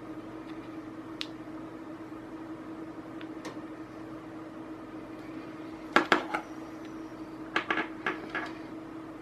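Sharp clicks and clatters of small hard objects being handled: one about a second in, a loud cluster about six seconds in, and another near the end, over a steady hum.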